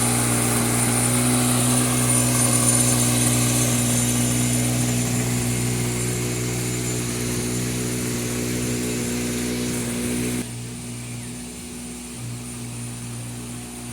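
An engine running steadily with a hiss over it. The hiss and much of the sound cut off suddenly about ten seconds in, leaving a lower steady hum.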